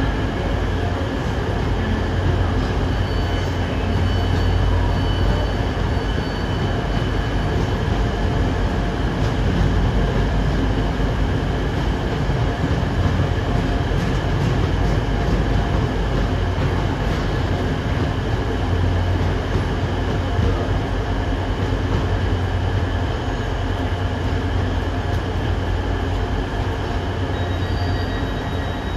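Freight train of cement hopper wagons rolling steadily past, wheels rumbling on the rails with a steady high squeal.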